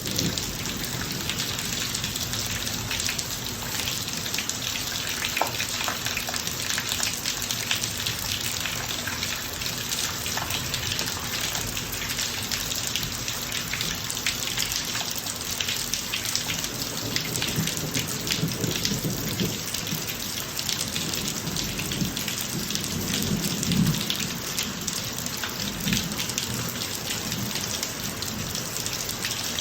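Rain falling on a driveway: a steady hiss with many small drop splashes. Low thunder rumbles through the second half and is loudest a little before three-quarters of the way through.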